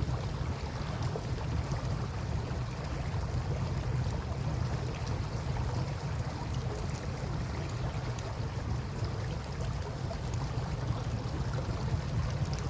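Steady wash of river water with faint scattered crackles from a campfire, over a constant low rumble.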